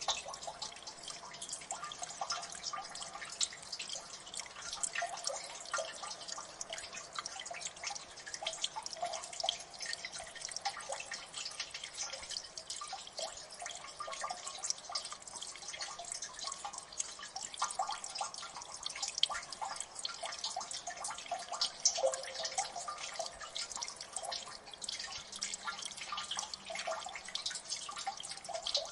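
Water dripping in a gully: a dense, irregular patter of many small drops, with a louder drop about three-quarters of the way through.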